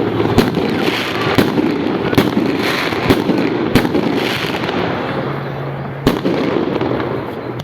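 Fireworks going off: a rapid string of sharp bangs from bursting shells over continuous crackling, with the bangs thinning out after about five seconds.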